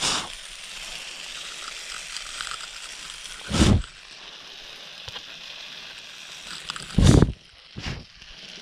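A stir-fry sizzles steadily in a pan over a camping alcohol stove. Three loud, short puffs of air hit the microphone, about three and a half seconds apart, with a smaller one near the end.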